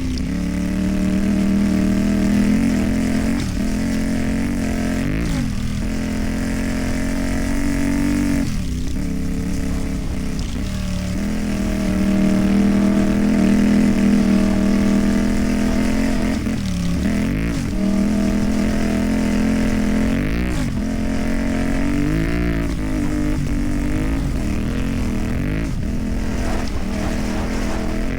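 CFMOTO 450MT's parallel-twin engine through a modified exhaust, running steadily under way on dirt tracks. Its pitch dips briefly and picks up again several times as the throttle is eased off and reopened.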